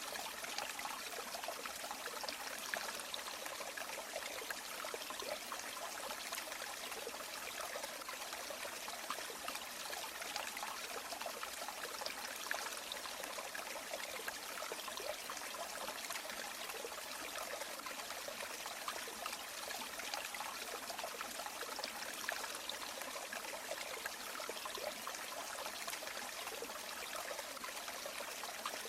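River water flowing steadily, a constant trickling babble.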